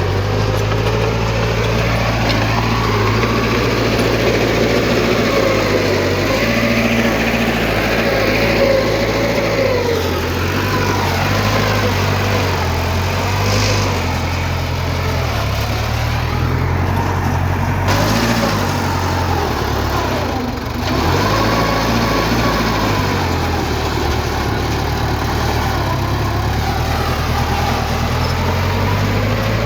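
Diesel engine of heavy earthmoving machinery running steadily, its low note stepping up and down with the load, with wavering higher-pitched whines over it. The sound dips briefly about two-thirds of the way through.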